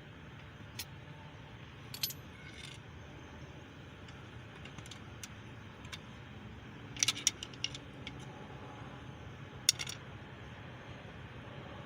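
Light metallic clinks and taps of tools and engine parts being handled, a few single ones and then quick clusters around seven seconds and again near ten seconds, over a steady low hum.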